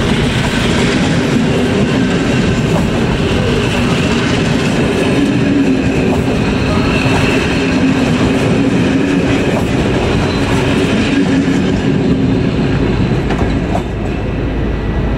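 Vintage passenger coaches passing at speed close by, their wheels running and clattering on the rails. The noise eases near the end as the last coach clears.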